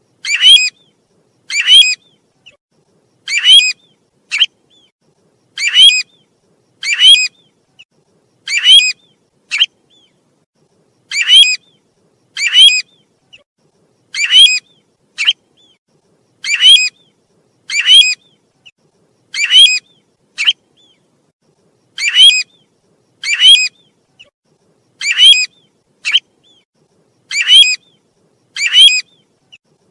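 Bird calls of the species called 'tu huýt' in Vietnamese, a looped lure recording meant to draw the bird in. Short, high call notes repeat regularly, about one every second and a half, often in pairs, with a fainter brief note between them.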